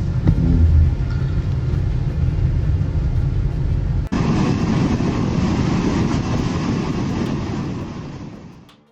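Tornado wind: a loud, steady, noisy rumble with the heaviest energy deep in the bass, much like wind blasting the microphone. It breaks off for an instant about four seconds in, resumes a little brighter, and fades out near the end.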